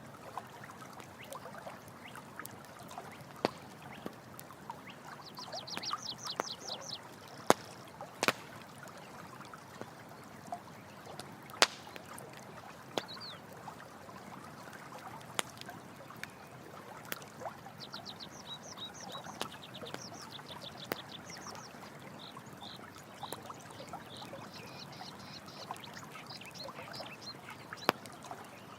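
Campfire crackling with scattered sharp pops over steady running water. An animal's rapid chirping call, short high notes in quick runs, comes three times.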